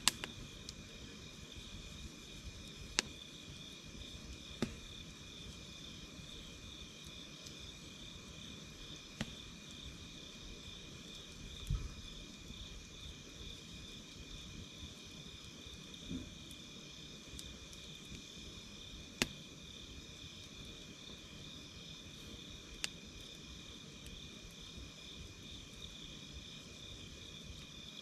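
Night insects trilling steadily in a dense, pulsing chorus at two high pitches, with a campfire's wood crackling in a handful of sharp, scattered pops and a couple of duller knocks.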